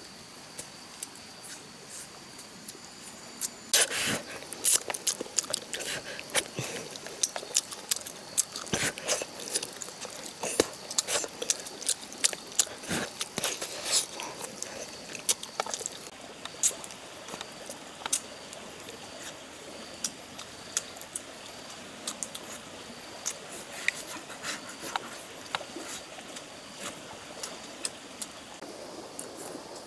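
Close-up eating sounds: irregular wet smacks and sharp clicks of chewing and lip-smacking, starting about four seconds in, thickest in the first half and sparser later, over a steady faint high-pitched hum.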